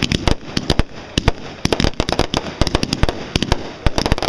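Fireworks going off in a rapid, irregular string of sharp bangs and pops, several a second without a pause, like a long firecracker string.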